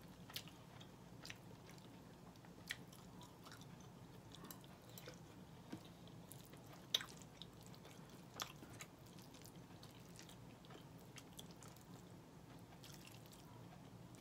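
Faint close-up chewing and mouth sounds of a person eating red beans and rice, with scattered short clicks and smacks, the loudest about seven seconds in, over a low steady room hum.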